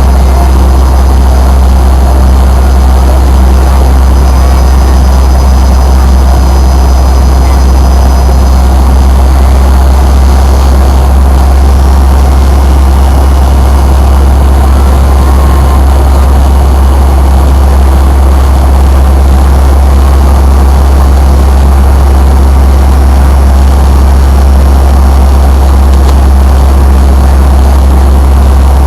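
Fokker 100 cabin noise heard from a seat near the rear-mounted Rolls-Royce Tay turbofans: a loud, steady, deep rumble of engine and airflow that does not change.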